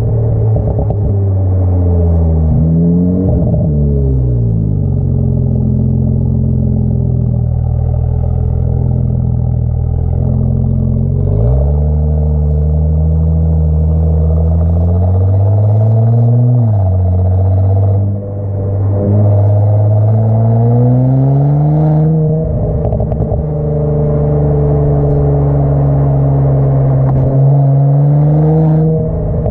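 Audi S5 B9's turbocharged 3.0 V6 running through an AWE Track exhaust. The note rises and falls in several slow glides, with long steady stretches between them and a brief dip about 18 seconds in.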